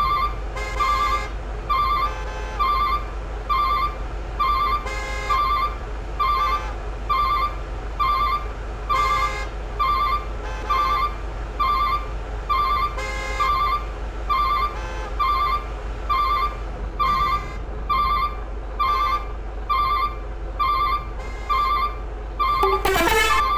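Truck's reversing alarm beeping about once a second, each beep a short warbling electronic tone, over the steady low rumble of the diesel engine. Near the end a quick tone glides sharply down in pitch.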